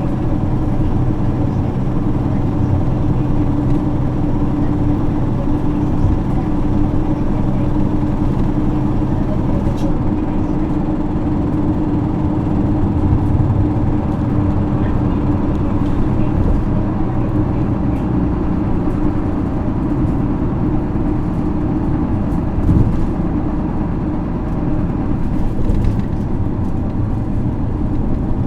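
Isuzu 6HK1 inline-six diesel engine of an Isuzu LV234L2 city bus running with a steady note, heard from inside the passenger cabin.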